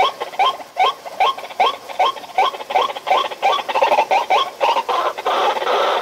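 A bird calling rapidly, short harsh calls repeated about two to three times a second, running together into a continuous noisy chatter in the last second.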